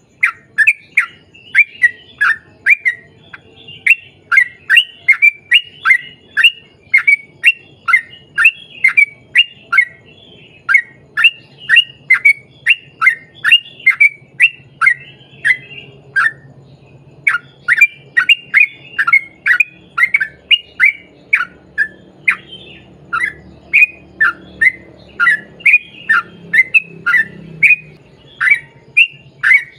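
Yellow-vented bulbul (trucukan) singing a long, fast run of short downslurred notes, about two to three a second, with a brief pause partway through.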